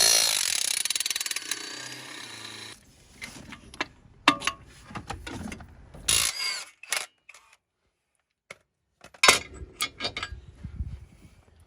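A power tool, such as an impact wrench or power ratchet, runs with a loud rapid rattle for about three seconds, undoing an engine mount bolt. After that come scattered clicks and knocks of metal tools and parts being handled.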